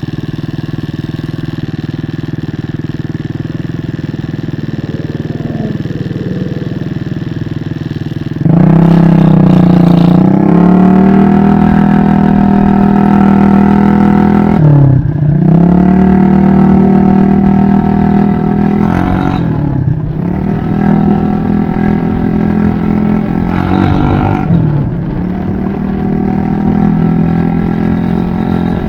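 Scooter engine running steadily, then revved up sharply about a third of the way in and held at higher revs, with the revs dropping and picking back up three times.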